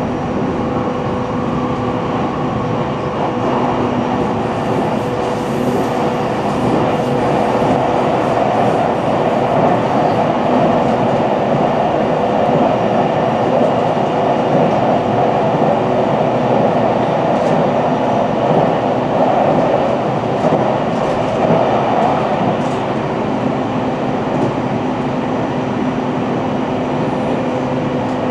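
Running noise of a JR Central 313 series electric train heard from its lead motor car: a steady rumble of wheels on rail with a steady motor hum, swelling somewhat louder through the middle.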